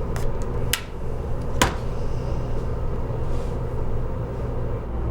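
Steady low hum of room noise, with three sharp clicks in the first two seconds, the loudest about a second and a half in.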